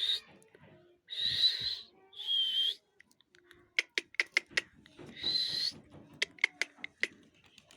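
Parrot giving three harsh screeching calls, about a second in, two seconds in and around five seconds in. Between the last two calls comes a run of sharp clicks.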